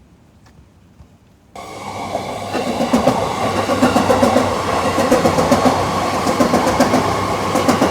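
Train running through the Yamanote Line level crossing, cutting in abruptly about a second and a half in and staying loud, with a fast clatter of wheels over the rails.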